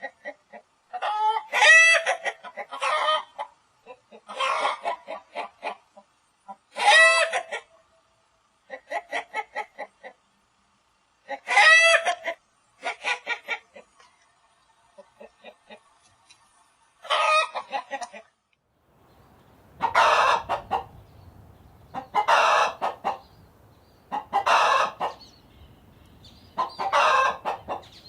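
Chickens clucking and cackling in repeated bursts of quick pitched calls. About two-thirds of the way through, a different recording with a background hiss takes over, with a call about every two and a half seconds.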